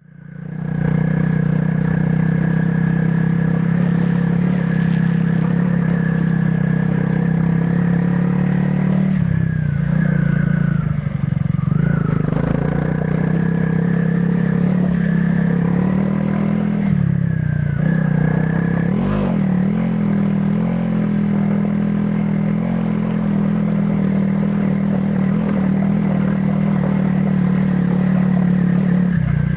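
Honda CRF300 Rally's single-cylinder four-stroke engine running through its stock exhaust at a steady riding pitch, with brief dips and wobbles in pitch around a third of the way in and again a little past halfway as the throttle changes.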